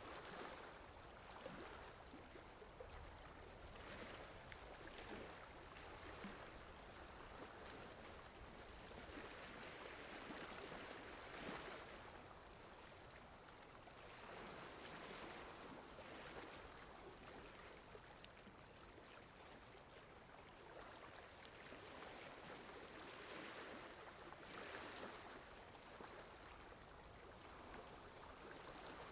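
Faint, steady rainfall: an even hiss that swells and eases now and then.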